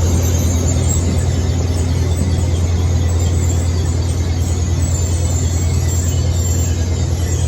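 A train at the station with its engine running steadily, a loud low hum that holds at one level, with faint high squeals over it.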